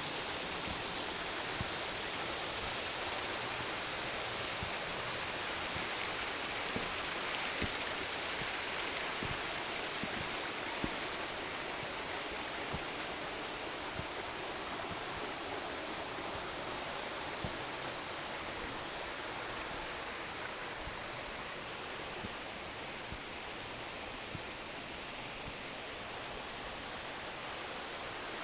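Steady rushing of flowing water, an even hiss that stays level throughout, with a few faint clicks scattered through it.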